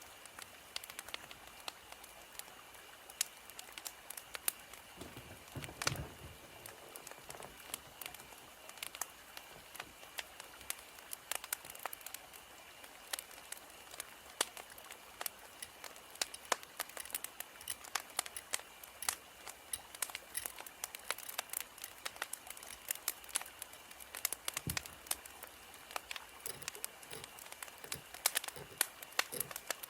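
Wood fire crackling: a steady low hiss with frequent sharp snaps and pops from burning firewood, and a couple of deeper thuds along the way.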